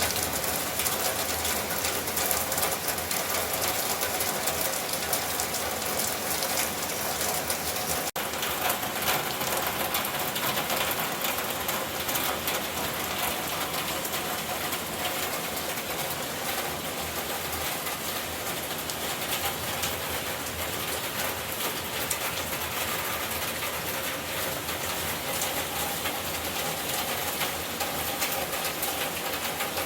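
Heavy rain pouring steadily, a dense even patter of drops.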